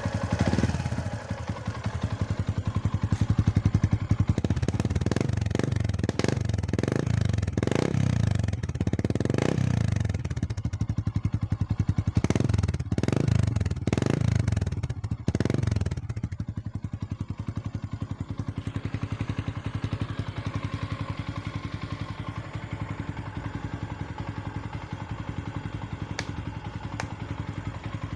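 Yamaha Sniper 150's single-cylinder four-stroke engine through an aftermarket Spyker exhaust pipe, revved in a string of short throttle blips over idle for about the first 16 seconds. It then settles into a steady idle.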